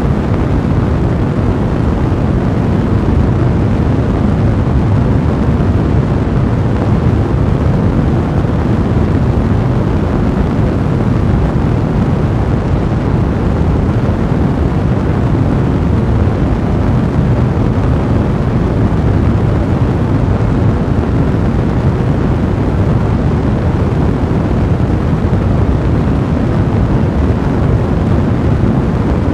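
Fireplace fire blazing: a steady, low-pitched rushing noise with no distinct pops standing out.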